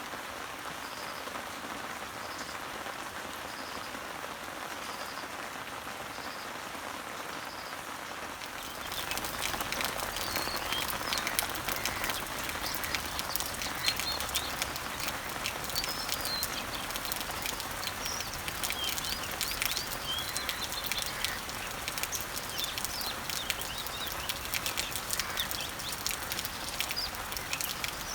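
Rain falling steadily on leaves and trees, with a faint high note repeating about once a second. About nine seconds in, the rain grows louder with dense dripping and birds chirping over it.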